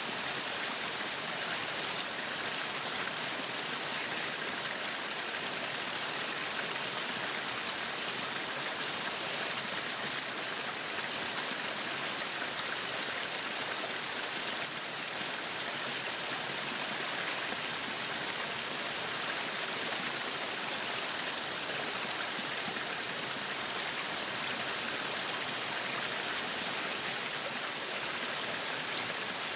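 Meat sizzling on a yakiniku grill: a steady, dense crackling hiss that runs without a break.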